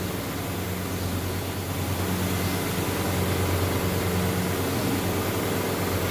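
Mawa (khoa) making machine running: a steady low hum with a hiss over it.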